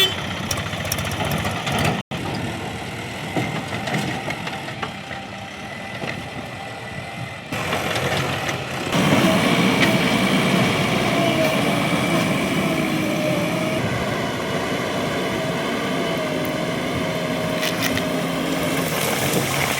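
Heavy diesel machinery engine running steadily. About two seconds in the sound briefly cuts out; from about nine seconds on it gets louder, with a wavering whine.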